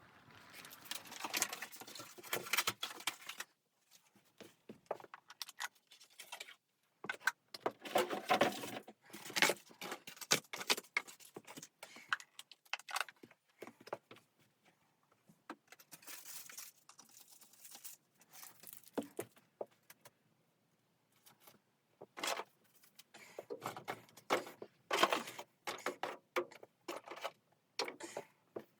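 Irregular spells of rustling with many small sharp clicks and clinks, like gear being handled, broken by short silent gaps; the busiest stretches come early, around a third of the way in, and again near the end.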